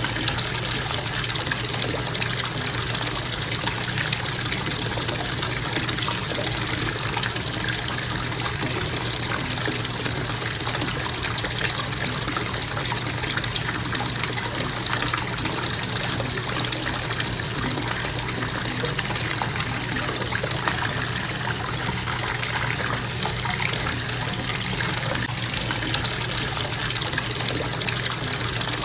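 Bathtub faucet running in a steady stream of water into the tub, with an even, unbroken rushing and splashing.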